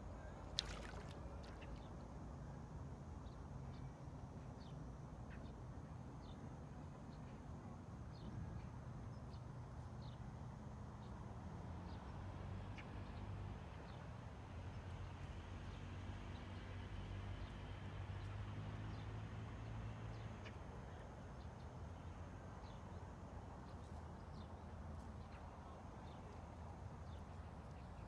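Faint ambient field recording: a steady low rumble, with a low hum that swells through the middle and fades, and scattered light ticks including one sharp click right at the start.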